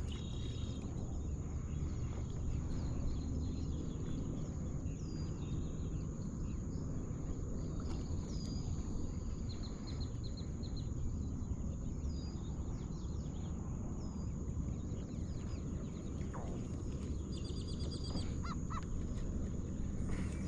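Birds calling over the water: scattered short, high calls, with quick repeated call series near the start and again near the end, over a steady rumble of wind on the microphone. A steady high-pitched whine runs underneath.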